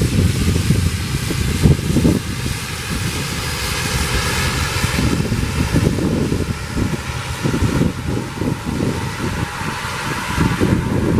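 Aircraft engine running steadily, with wind buffeting the microphone in uneven low gusts.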